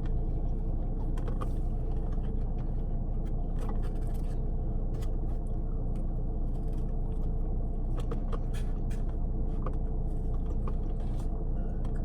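Steady low rumble with scattered small clicks and crunches of people eating.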